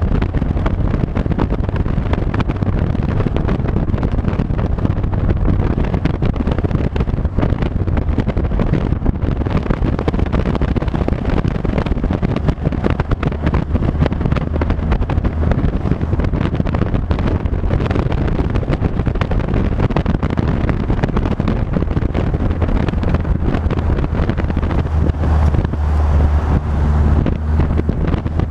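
Wind rushing over the microphone of a moving vehicle, with a steady low engine drone underneath that swells a little near the end.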